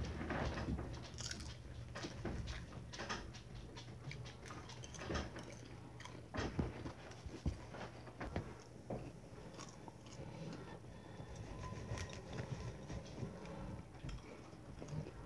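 Two people chewing popcorn close to the microphone, with irregular crunches.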